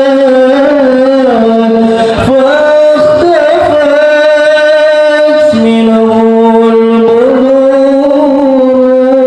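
A male qori reciting the Quran in melodic tilawah style, holding long ornamented notes that slide between pitches, with a brief break about two seconds in.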